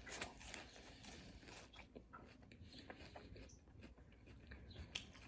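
Faint chewing with small wet mouth clicks and ticks of someone eating, close to the microphone.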